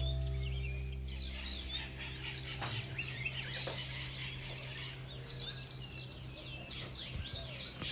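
Birds chirping and trilling, many short calls one after another. A held low note fades out in the first second or so.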